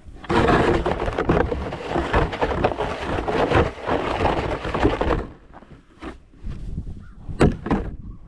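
Snow shovel scraping across the driveway and pushing snow for about five seconds, followed by a couple of sharp knocks near the end.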